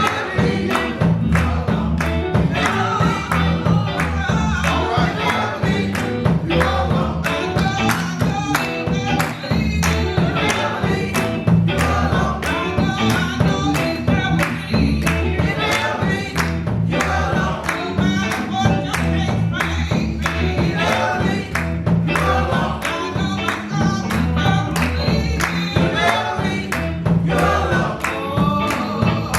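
Gospel choir singing with band accompaniment over a steady beat of about two strokes a second.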